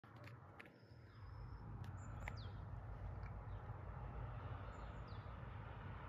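Faint, scattered small-bird calls: a few thin, high whistles, two of them sliding downward, and short chirps, over a steady low rumble.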